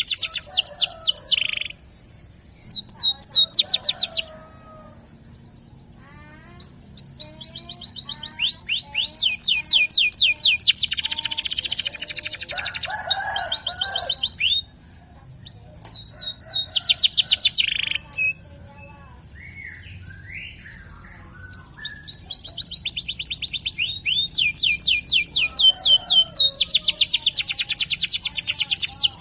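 Local Indonesian canary singing: long, fast rolling trills of rapidly repeated sweeping notes, delivered in several bursts separated by short pauses, with a thin steady high whistled tone held under much of the song.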